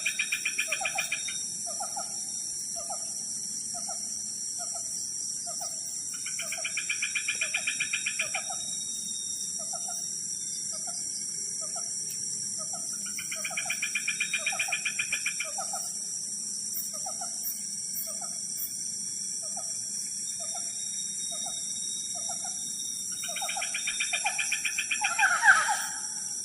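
Tropical forest at dusk: a steady high insect drone. Over it, an unidentified animal repeats a rapid, pulsing call of about two seconds roughly every seven seconds, a short low note comes once or twice a second, and a falling call sounds near the end.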